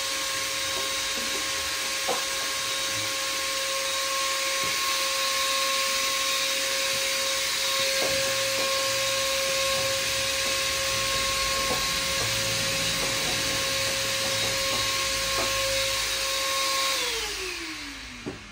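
Wet/dry shop vacuum running steadily with a high whine and scattered small clicks, then switched off about a second before the end, its motor winding down in a falling pitch.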